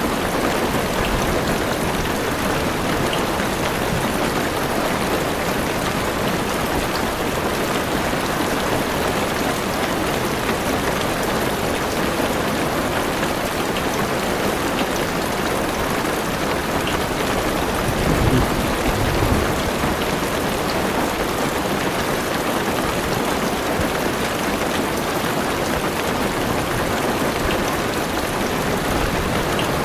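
Heavy rain drumming steadily on a car roof and windows, heard from inside the car. About two-thirds of the way through there is a brief low rumble.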